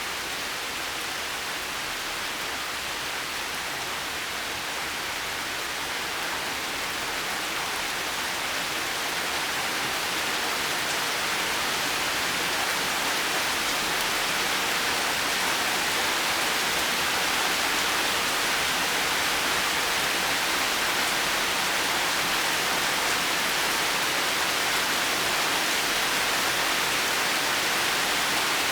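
Steady rain: an even, dense hiss of falling water with no distinct drops or thunder, swelling a little louder around ten seconds in.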